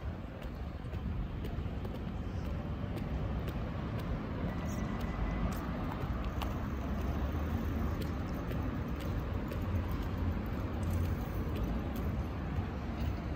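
City street ambience: a low, steady rumble of car traffic that swells gently, with light footsteps ticking about twice a second.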